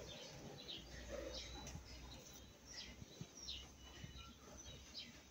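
Quiet background with a few faint, short bird chirps, about one a second.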